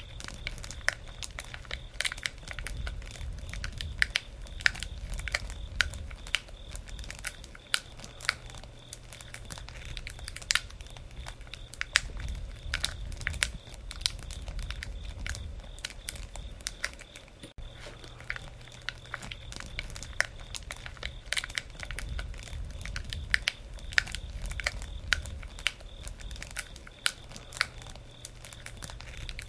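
Wood campfire crackling: irregular sharp pops and snaps, several a second, over a low rumble that swells and fades every several seconds.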